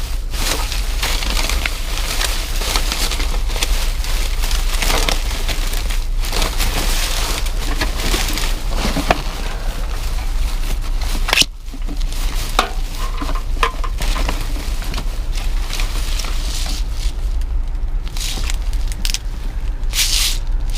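Rustling, crinkling and crunching of trash bags and discarded items being rummaged through in a dumpster, with many small clicks and crunches over a steady low rumble.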